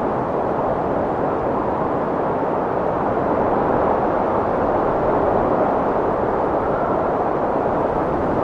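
Strong wind blowing as a steady rushing noise that swells slightly about three seconds in, with a faint whistle near the end.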